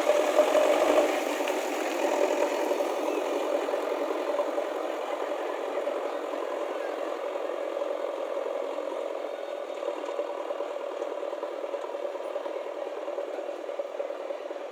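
A vehicle engine runs with a steady rattle. It is loudest in the first second, then eases off slowly.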